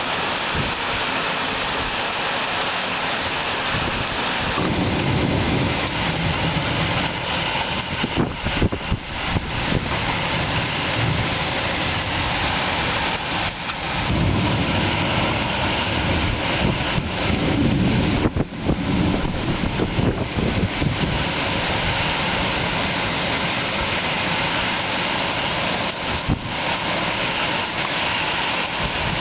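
Heavy rain pouring steadily in a thunderstorm, a dense hiss, with stretches of low rumbling wind buffeting the microphone and a few short knocks.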